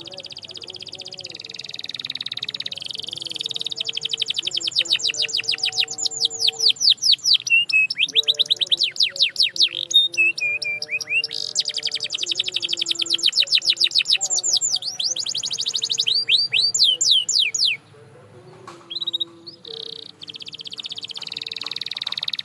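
Canary singing: long runs of rapid repeated notes and rolling trills, broken by a short pause about three-quarters of the way through.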